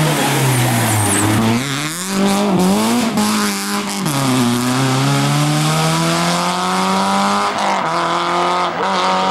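Rally car engine at high revs, its pitch sweeping up and down with gear changes. The pitch sags in the first second, climbs sharply just before 2 seconds, drops about 4 seconds in, then rises steadily until it breaks off near 7.5 seconds.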